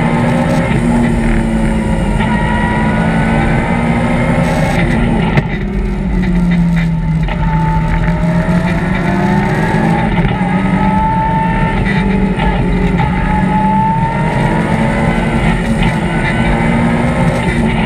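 BMW M3 rally car's engine heard from inside the cabin at stage pace, its pitch rising and falling as it accelerates and lifts between bends, with a short dip about five and a half seconds in.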